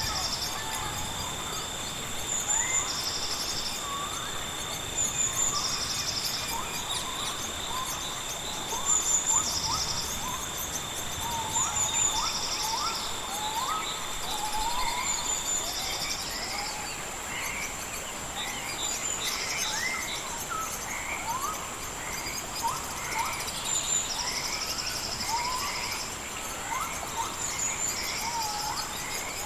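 Rainforest ambience of insects and birds: a steady high-pitched insect drone, with a second steady insect tone that stops about halfway through. Over it, a pulsing trill repeats every two to three seconds, with many short rising bird chirps.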